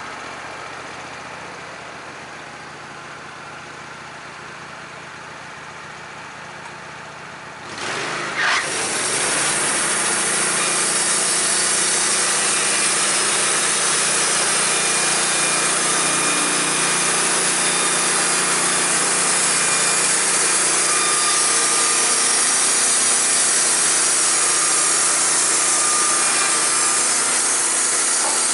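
Portable band sawmill: its engine runs steadily, then about eight seconds in it comes up to speed and the blade cuts through a pine flitch with a loud, even sawing noise.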